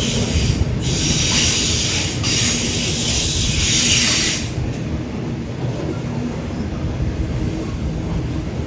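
Freight train rolling past with a steady low rumble, and a high-pitched squeal from the wheels that comes and goes, fading out about four and a half seconds in.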